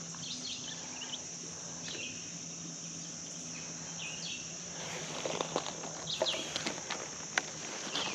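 Steady high-pitched drone of insects, crickets or similar, with a few short bird chirps scattered through it and a handful of small clicks near the end.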